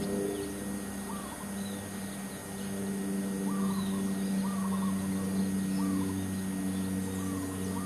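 Birds calling outdoors, short rising-and-falling notes, often in quick clusters, repeating about every second or two over a steady low hum.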